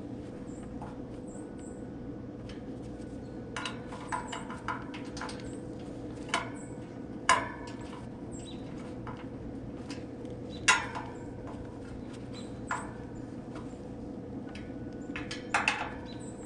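Scattered metallic clicks and clinks of hand tools and hardware against a heat pump's condenser fan motor and mount as it is fastened in place. The loudest come about 7 and 11 seconds in, each ringing briefly, with a quick cluster near the end, all over a steady background hum.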